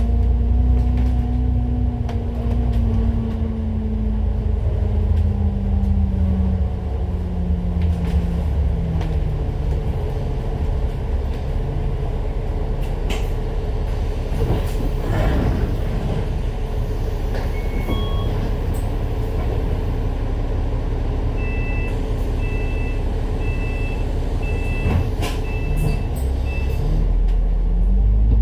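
Double-decker bus heard from inside: the engine note drops as the bus slows, then idles with a low rumble and a short burst of air hiss. Near the end, a run of about six short high electronic beeps sounds about once a second, then the engine note starts to rise as the bus pulls away.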